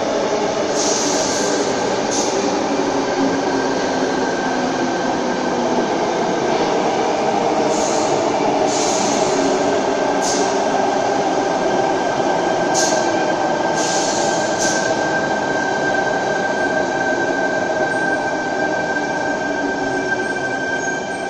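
Sydney Trains double-deck electric train running into an underground platform and slowing, with a layered whine that sinks slowly in pitch. A high steady squeal grows stronger in the second half, and about eight short hisses come and go.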